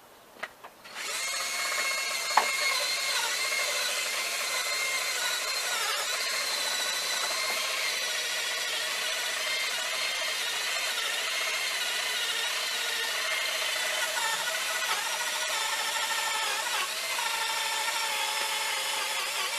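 A drill spinning a wire-brush attachment starts up about a second in and runs steadily with a wavering whine as the brush works an old rusted fishing reel. There is a sharp click shortly after it starts.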